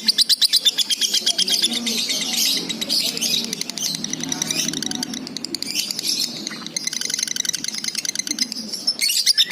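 Lovebird singing a long, continuous chattering trill of rapid high chirps, about ten a second, that eases off in the middle and picks up again near the end. This is the unbroken 'ngunci' song that keepers prize in a lovebird in full voice.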